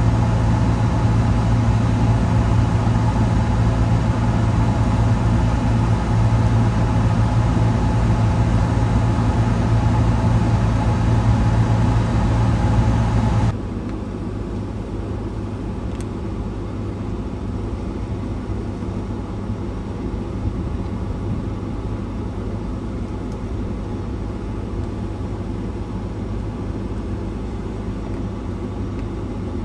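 A vehicle's engine idling steadily, a low hum heard from inside the vehicle. About halfway through it suddenly drops to a quieter level and carries on steadily.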